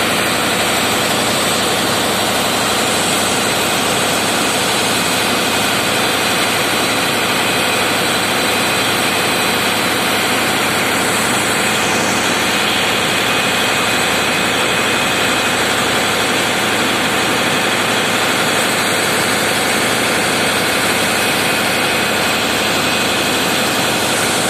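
Diesel engines of a river passenger launch running steadily, heard from inside the engine room: a loud, even, unchanging mechanical din.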